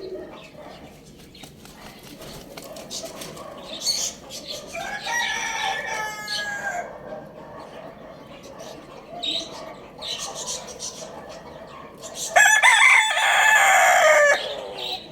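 Rooster crowing twice: a fainter crow about five seconds in, then a loud crow of about two seconds near the end. Brief higher bird calls come between them.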